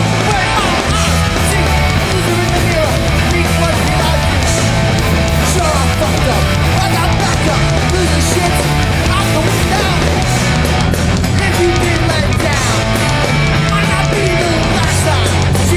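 Hardcore punk band playing a song live, loud and dense: distorted electric guitars, bass and drums with crashing cymbals.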